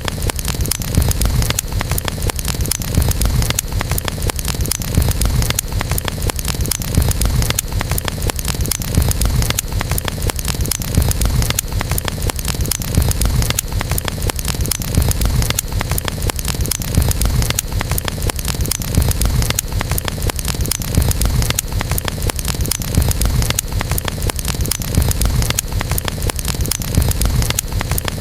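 Campfire burning steadily, with dense small crackles and pops over a low rumble of flames.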